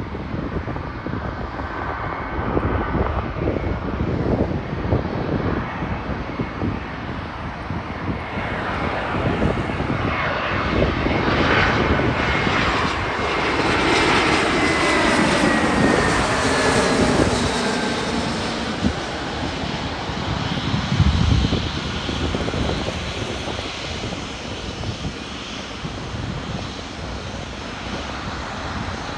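Jet airliner passing the microphone: its engine noise swells to a peak about halfway through, with a whine that falls in pitch as it goes by, then fades away.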